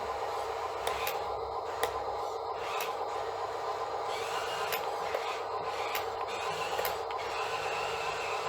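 Steady whine of small electric motors, with scattered clicks and creaks of plastic and metal parts moving.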